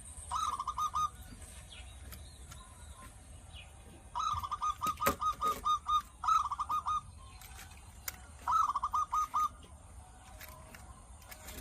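A bird calling in four short bursts of rapid, chattering notes, the longest near the middle.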